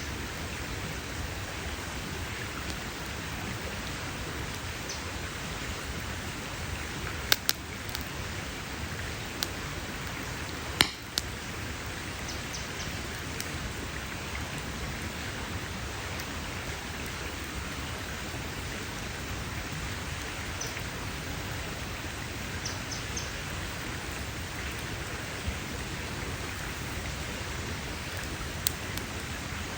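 Campfire burning with a steady hiss and scattered sharp crackles and pops, a few close together about seven to eleven seconds in, the loudest pop about eleven seconds in.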